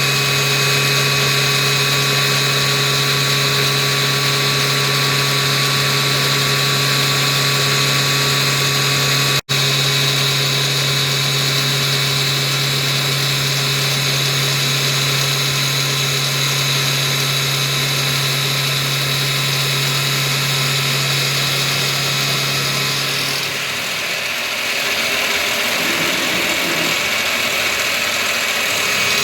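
Combimill milling machine running, its 10 mm four-flute end mill cutting steel: a loud, steady machine whine with several held tones. It cuts out for a split second about a third of the way in, and near the end the steady whine stops for a few seconds while a lower, shifting machine sound takes over before the whine returns.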